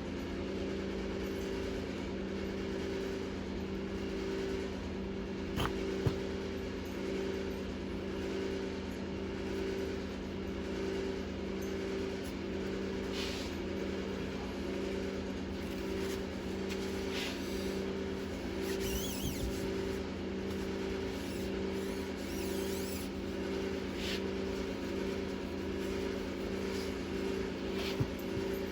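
Steady machine hum with a slow pulse about once a second, and a couple of sharp clicks or knocks about six seconds in.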